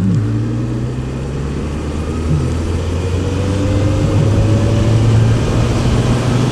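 Suzuki GSX1400's inline-four engine running as the motorcycle rides along, its pitch rising slowly as it gathers speed.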